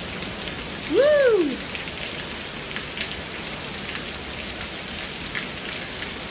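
Steady rain falling, with scattered sharper drips.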